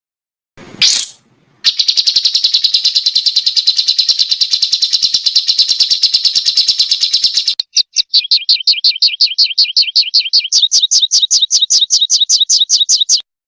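A small songbird's rapid 'tembakan' bursts: a short rising note, then a long, fast trill of repeated high notes. A brief gap follows, then a second run of quick notes that each slide down in pitch, ending abruptly.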